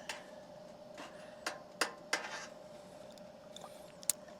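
A few light, sharp clicks and knocks, like cookware and small items being handled, over a faint steady hum from the running toaster oven.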